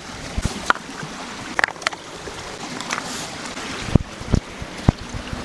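Creek water flowing steadily, with a scattering of sharp snaps and knocks over it, the loudest about four seconds in.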